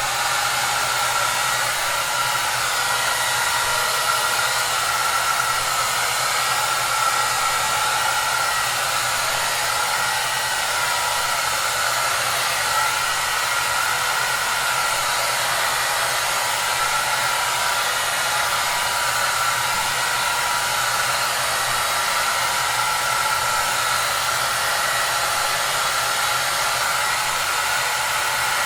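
Hair dryer running steadily: an even rushing blow of air with a constant motor whine and a low hum underneath, used as white noise for sleep.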